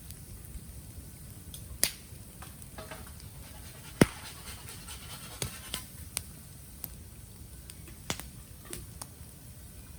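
Bamboo burning in a bonfire, popping and crackling: about ten sharp cracks at irregular intervals, the loudest about four seconds in, over a low steady background.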